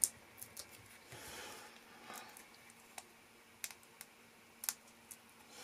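Faint scattered small clicks and taps, about eight over a few seconds, with a short soft rustle of paper about a second in: paper pieces and small crafting tools being handled on a tabletop.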